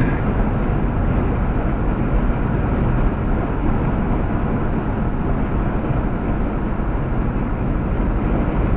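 Steady road and engine noise inside a car moving at highway speed: a constant low rumble and tyre hiss.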